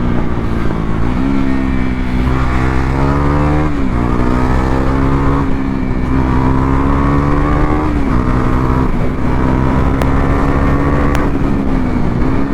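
KTM Duke 390's single-cylinder engine accelerating hard, its pitch climbing and dropping back at each upshift several times. Two short clicks a little over a second apart near the end.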